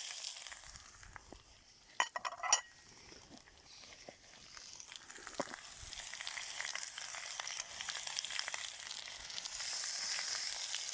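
Potatoes and chunks of pork heart frying in hot oil in a kazan, with a steady high sizzle. A brief clatter comes about two seconds in, and the sizzle builds up again after it.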